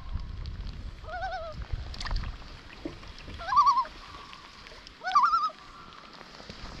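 Common loon giving three short quavering calls, about a second and a half apart, with a low rumble under the first couple of seconds.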